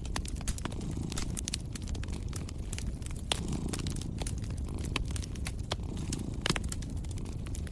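Wood fire in a fireplace crackling, with sharp irregular pops and snaps, over a cat's low, steady purr that swells and fades with its breathing.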